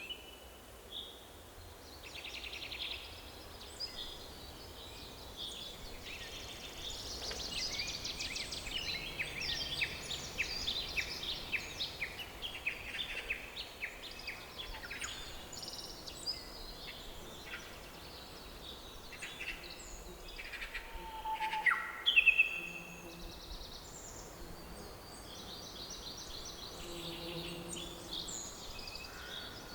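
Forest birdsong: several birds chirping and trilling over a faint steady background hiss, busiest from about a quarter to a third of the way through, with one louder sharp call about two-thirds of the way in.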